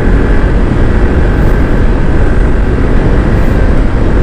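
Loud, steady wind rush on the microphone while riding, with the Honda ADV160 scooter's engine running underneath.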